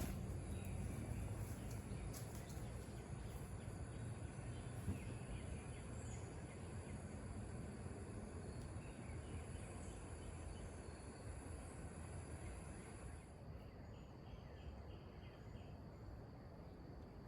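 Insects chirping in a steady high drone over a faint low rumble. The high drone cuts off about 13 seconds in, and a few quick chirps follow.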